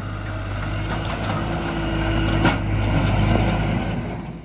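Heavy equipment's diesel engine running steadily and slowly getting louder, with one sharp knock about two and a half seconds in; the sound cuts off abruptly at the end.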